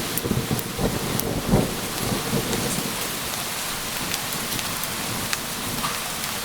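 Steady rain with a low thunder rumble rolling in the first couple of seconds and then fading. Scattered sharp drips tick throughout.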